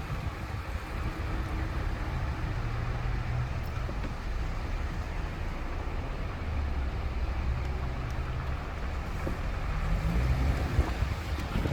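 Car driving: steady engine hum and road noise heard from inside the car, the engine's low hum shifting a little in pitch.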